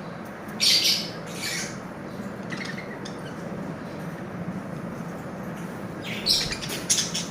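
Lovebirds giving short, shrill squawks: two calls about a second in, then a quick cluster of several near the end, over a steady low hum.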